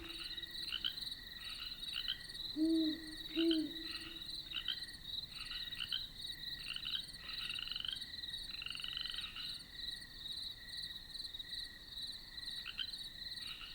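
Outdoor chorus of small animal calls: short calls repeated every half second or so over a steady high buzz, with two brief low notes about three seconds in.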